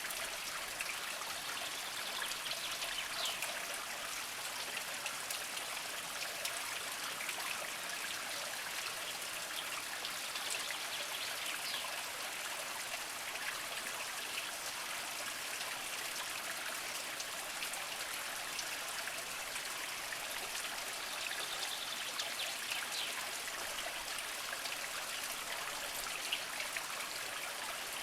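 A small mountain spring trickling slowly over mossy rocks: a steady, even water sound with small splashes and drips running through it.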